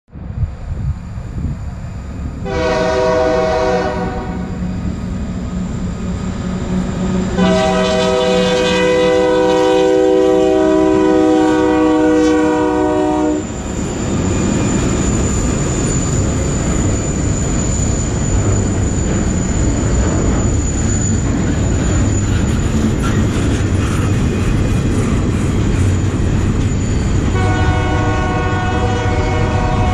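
Diesel freight locomotive's horn: a short blast, then a long one of about six seconds as it nears the crossing. Then the locomotive's engine rumble and the steel wheels of double-stack container cars rolling past, with the horn sounding again near the end.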